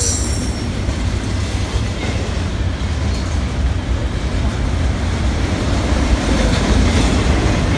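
Double-stack intermodal container cars of a BNSF freight train rolling past, a loud, steady rumble of steel wheels on rail. A brief high wheel squeal sounds right at the start.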